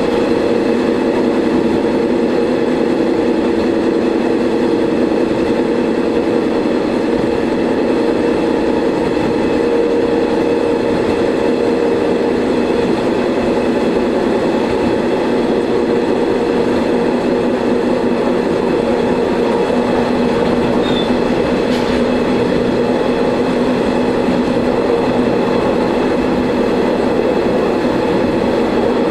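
Shigaraki Kohgen Railway diesel railcar running steadily along the line, heard from inside the railcar: a constant engine drone with wheel and rail noise and a faint click about 22 seconds in.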